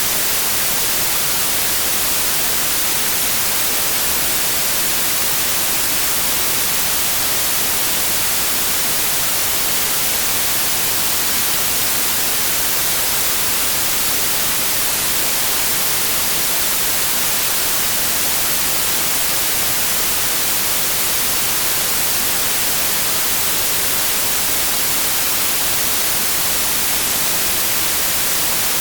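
Synthetic white noise: a steady, even hiss with no tones or changes.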